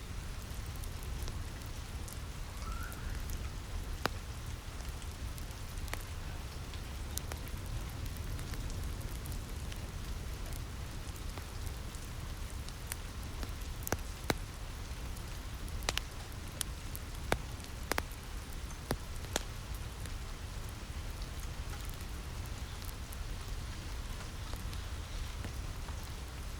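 Steady rain on a roof with a low rumble, mixed with the scattered sharp pops of a crackling wood fire, several coming close together in the middle.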